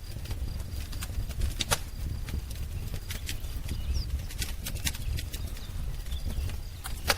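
Wood fire crackling: irregular sharp pops and snaps over a steady low rumble, with a faint short high bird chirp about four seconds in.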